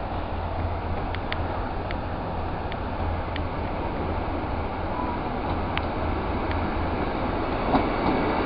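Class 156 Sprinter diesel multiple unit approaching slowly, its diesel engine running as a steady low hum that grows louder near the end, with a few faint high clicks.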